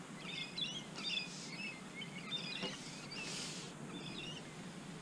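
Small birds chirping and twittering in quick high calls over a faint steady background hiss, with two short soft rustles about one and three seconds in.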